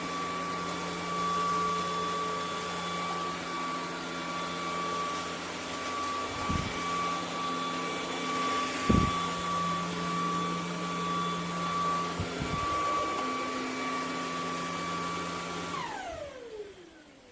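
ElecKeys K10 cordless stick vacuum running with a steady high whine, with a few dull knocks along the way. Near the end it is switched off and the whine falls away as the motor spins down.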